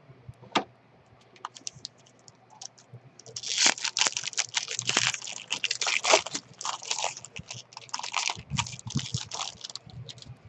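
A baseball trading card pack's foil wrapper being torn open and crinkled. A sharp click and a few light ticks come first, then a dense crackle of crinkling about three seconds in that lasts some seven seconds.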